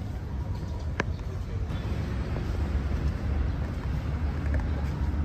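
City walking ambience: a steady low rumble with people talking in the background, and a single sharp click about a second in.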